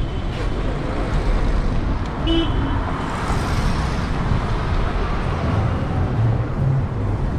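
Steady city street traffic noise, with a short high-pitched beep right at the start and another about two seconds in.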